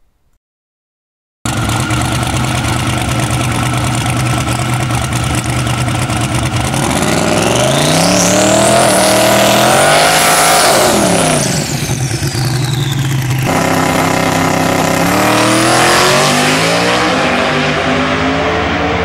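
Turbocharged drag race car engine running loud, then revving up and back down twice, with a high whine rising and falling along with the engine.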